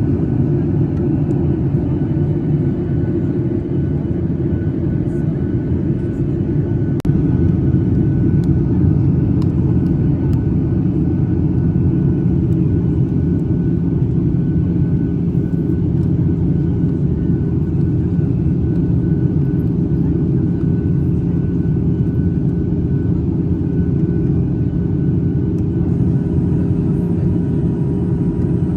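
Steady cabin noise of a passenger airliner, a dense low rumble of engines and airflow heard from inside the cabin, with a faint steady whine above it. It gets a little louder about seven seconds in.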